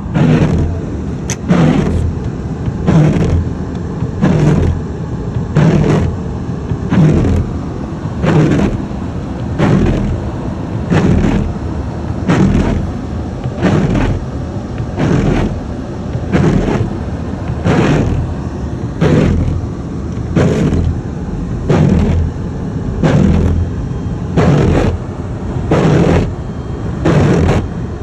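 Windshield wipers sweeping back and forth in a regular swish about every second and a third, over the steady low rumble of the car idling inside its cabin.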